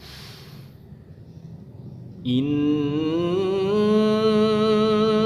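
A Qur'an reciter draws a short breath, then about two seconds in begins a long, held melodic note with a slight wavering ornament: the drawn-out opening of a verse in tajwid recitation.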